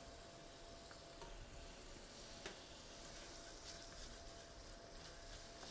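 Faint sizzling of pigeon legs, hearts and livers browning in a small stainless-steel saucepan while tomato paste is stirred in with a spatula, with a thin steady tone underneath and a light tap about two and a half seconds in.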